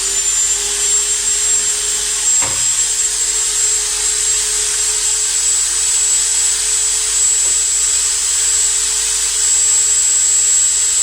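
Electric power tool motor that has just spun up to speed and runs steadily with a high whine and a hiss, with a single sharp click about two and a half seconds in.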